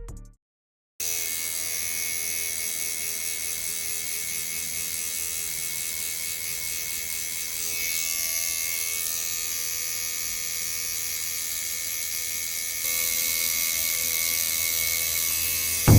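Tattoo machine buzzing steadily. It starts about a second in and grows a little louder near the end.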